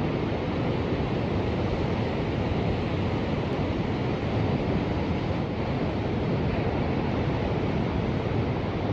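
Ocean surf: a steady, even wash of waves with no single wave break standing out.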